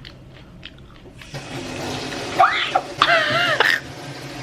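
Water running from a kitchen tap, starting about a second in. Over it, a person gives high, wavering vocal exclamations, the loudest part, about two to three seconds in.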